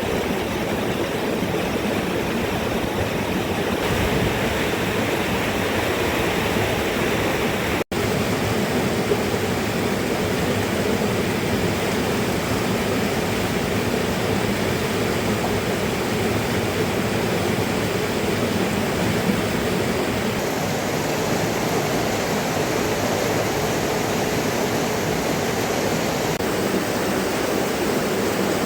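Steady rushing water noise that does not let up, cutting out for an instant about eight seconds in.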